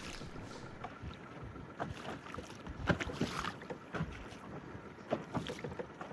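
Water lapping and slapping against a small boat's hull in irregular little splashes, with light wind on the microphone.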